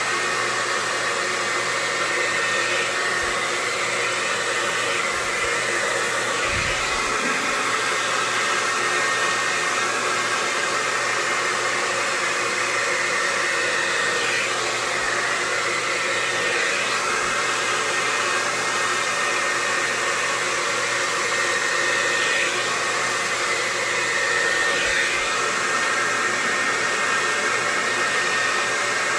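Hair dryer running steadily with a thin high whine over its rush of air, used to blow acrylic paint across a canvas in a swipe.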